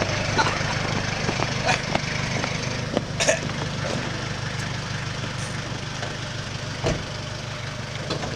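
Ford Ranger pickup's engine running steadily, with a few short sharp knocks or clicks over it, the loudest about three seconds in.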